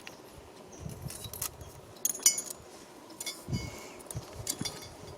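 Scattered light metallic clinks and clicks of metal tools being handled, with a soft thump about three and a half seconds in.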